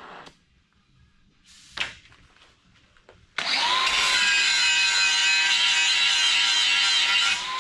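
A handheld electric power tool starts suddenly about three seconds in, its whine rising briefly as it spins up, then runs steadily for about four seconds while cutting steel plate.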